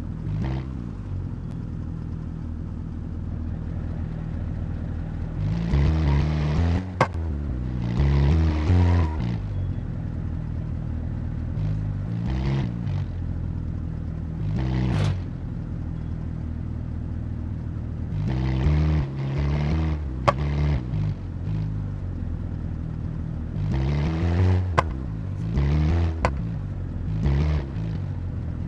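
Race car engine idling, with repeated short throttle blips that rise and fall in pitch and a few sharp cracks, as the car is driven onto the tow truck.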